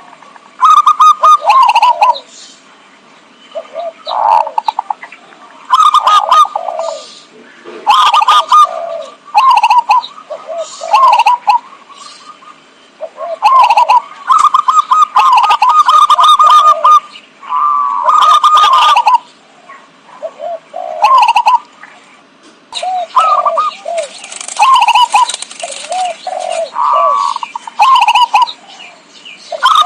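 Zebra dove (perkutut) song: phrases of rapid, staccato coos repeated every second or two with short gaps between them. It is played as a lure call to attract wild perkutut.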